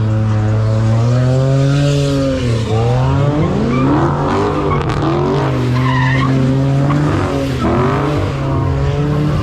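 A car engine held at high revs, its pitch wavering and dipping briefly twice, while the tyres squeal as the car spins them in a burnout or donut.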